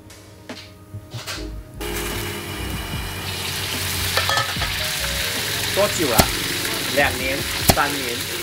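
Food frying in hot oil in a wok on a gas burner: a steady sizzle sets in about two seconds in and grows louder a second later. Two sharp clicks come later on.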